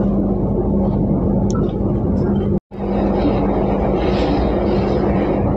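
Argo Parahyangan passenger train running, heard inside the carriage: a steady rumble of wheels on the track with a constant low hum. The sound cuts out for an instant about two and a half seconds in, then carries on unchanged.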